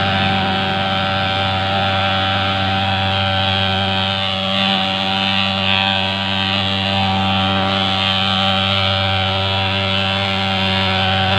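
Swingfog SN50 pulse-jet fogging machine running steadily: a loud, even buzzing drone that holds one pitch throughout.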